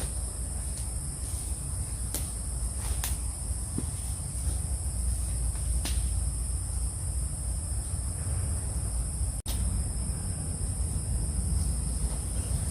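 Forest insects such as crickets keeping up a steady, high-pitched drone, over a low rumble, with a few faint ticks. The sound drops out for an instant about three quarters of the way through.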